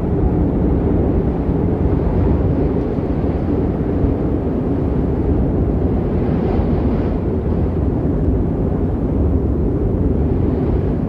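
Strong wind buffeting the microphone: a loud, steady low rumble that rises and falls slightly.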